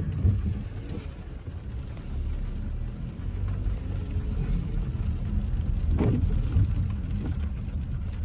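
Car running at low speed, heard from inside the cabin: a steady low engine and road rumble, with a brief knock about six seconds in.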